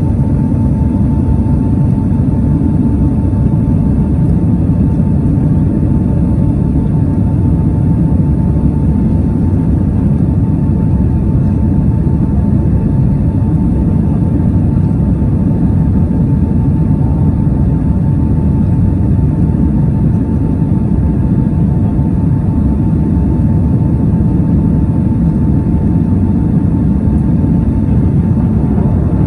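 Steady low rumble of a Boeing 767's jet engines and rushing air as heard inside the passenger cabin, with a faint steady whine above it.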